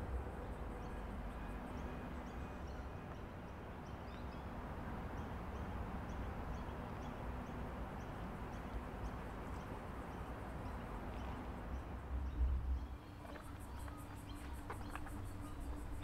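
Outdoor ambience: small birds chirping repeatedly, with a fast high trill near the end, over a steady low rumble.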